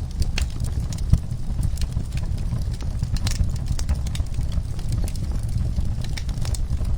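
Wood fire burning in a fireplace: irregular sharp crackles and pops over a steady low rumble of the flames, with one louder pop about a second in.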